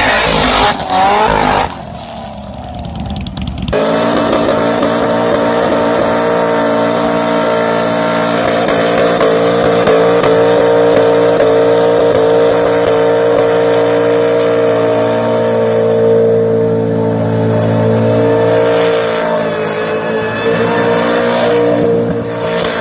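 Muscle car V8 engine revving briefly, then running loud and held at a nearly constant speed for a long stretch, easing off slightly near the end.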